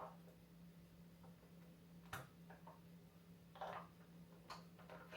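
Near silence: a low steady hum with a few faint clicks and light taps, the sharpest a single click about two seconds in.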